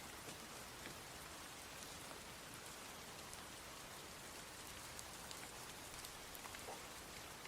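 Rain falling steadily: an even hiss with many scattered drops ticking.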